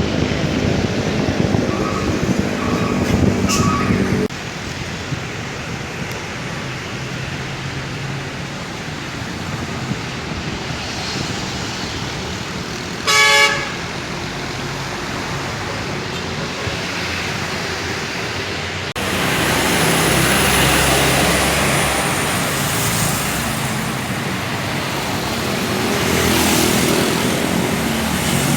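Road traffic of cars and motorcycles running past, with three short light beeps of a horn near the start and one loud horn blast of about half a second roughly 13 seconds in.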